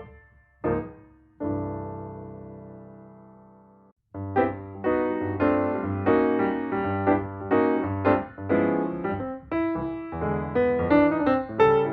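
Background piano music: a few struck notes, a held chord that fades away, then a brief break about four seconds in before a flowing run of piano notes.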